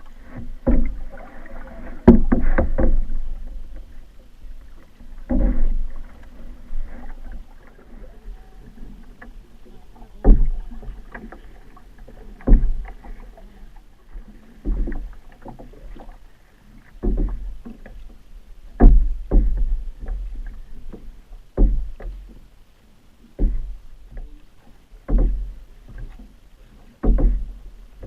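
Canoe being paddled: repeated paddle strokes with a splash and dull knock about every two seconds, irregularly spaced.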